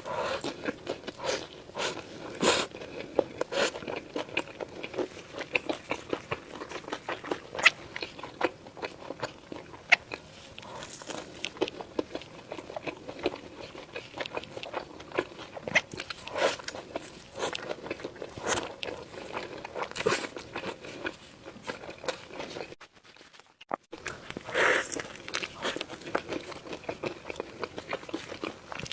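Close-miked eating: bites and chewing with many sharp, wet mouth clicks, broken by about a second of near silence roughly three-quarters of the way through.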